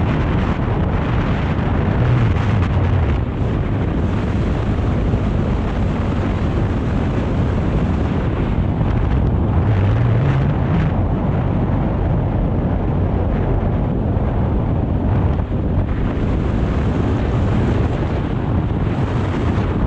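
BMW R 1250 GS boxer-twin engine running on the move, under heavy wind noise on the microphone. The engine note climbs about halfway through as the bike picks up revs.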